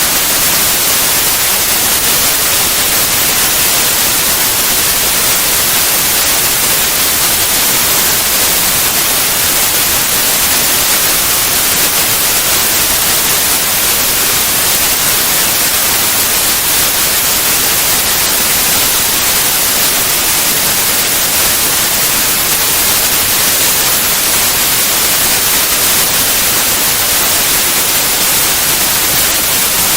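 Steady white noise: an even, unchanging hiss across the whole range, brightest in the treble.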